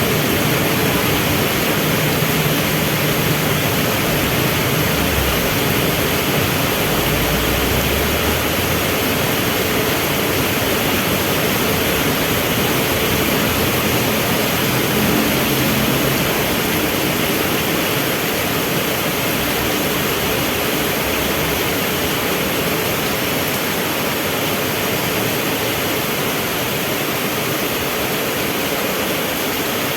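Heavy rain falling steadily, a loud even hiss. A low hum of vehicle engines runs under it through the first half.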